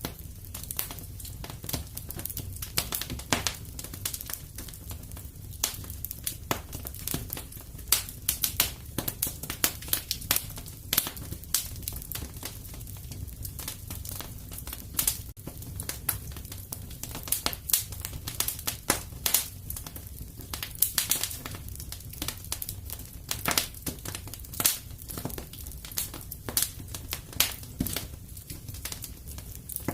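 Fireplace wood fire crackling: frequent irregular sharp pops and snaps over a low steady rumble of the flames.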